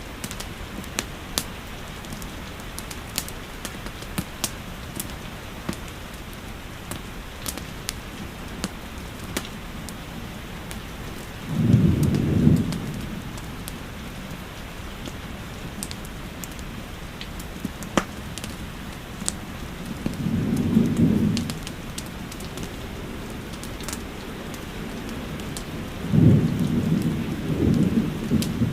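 Steady rain with a wood fire crackling, sharp pops and snaps scattered all through. Three low rumbles rise and fade, the last the longest.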